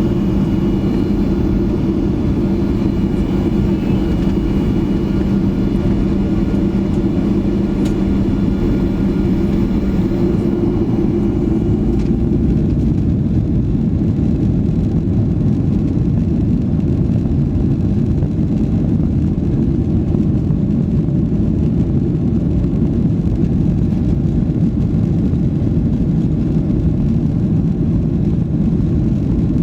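Boeing 737 jet engines running at takeoff power: a loud, steady rumble overlaid with a hum of several steady tones that fades out about eleven seconds in, leaving the even rumble.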